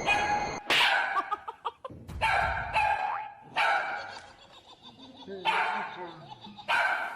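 A dog barking several times in short, sharp barks, with quieter gaps between them.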